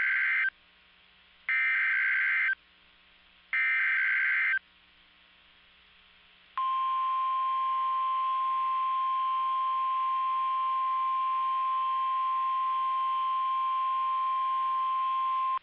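NOAA Weather Radio emergency alert header: three short bursts of screeching digital data tones (the SAME code), then a long steady single-pitch alarm tone beginning about six and a half seconds in, signalling a tornado warning.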